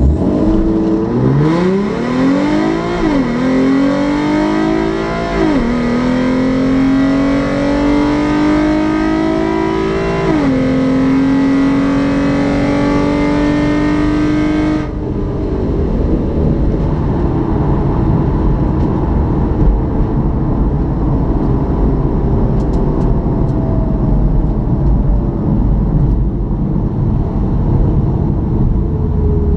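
Car engine at full throttle on a quarter-mile drag run, heard from inside the cabin: it launches and climbs in pitch through the gears, with upshifts about 3, 5½ and 10½ seconds in. About 15 seconds in the throttle is lifted, and the rest is a lower engine note with road noise as the car slows down.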